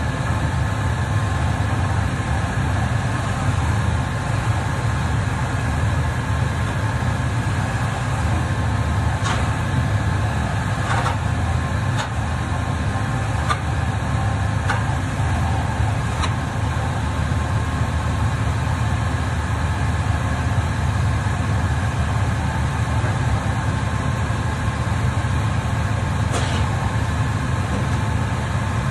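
A machine running steadily: a loud, even low drone with a steady whine above it, and a few light clicks partway through and near the end.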